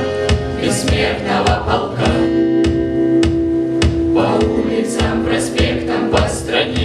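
Song with a steady beat, sung by a group of voices, with one long held note about two seconds in.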